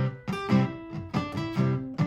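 Martin GPCPA4 acoustic guitar playing a run of plucked notes and chords over a looped guitar part, with a sharp attack every quarter to half second.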